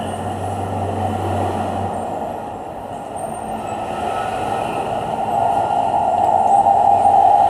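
Manual metal lathe running, a steady machine noise that gets louder over the last few seconds, with a low hum under it for about the first two seconds.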